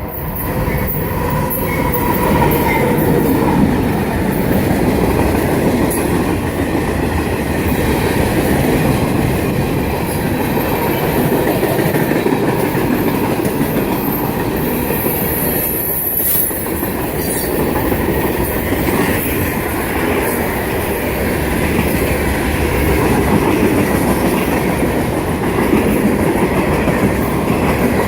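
Freight train rolling past, a steady loud rumble and clatter of steel wheels on the rails, with a brief high squeal about halfway through.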